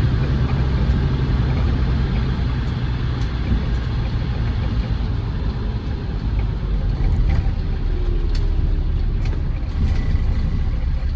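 Land Rover Defender TD5's 2.5-litre five-cylinder turbodiesel running steadily, with road noise, heard from inside the cab while driving.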